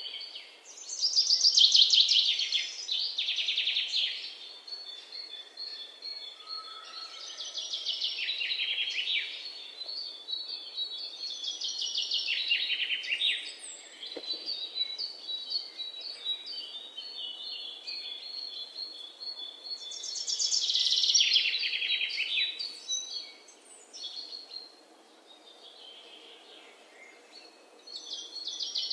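Birds singing: bursts of fast, high chirping trills every few seconds, with strings of short high whistled notes between them, quieter for a few seconds near the end.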